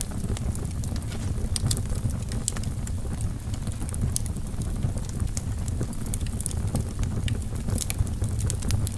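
Wood logs burning in a fireplace, crackling: irregular sharp snaps and pops over a steady low rumble.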